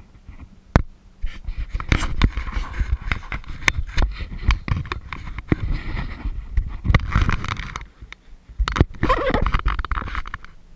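Kayak paddle strokes splashing and dripping in lake water, in three swells a few seconds apart, with scattered sharp knocks and a steady low rumble underneath.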